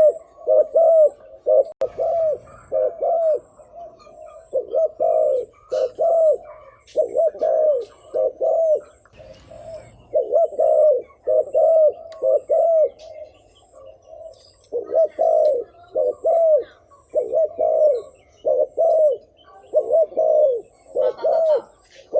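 Spotted dove giving the rapid 'thúc gù' cooing call: short arched coos repeated about twice a second in runs, with brief pauses between the runs.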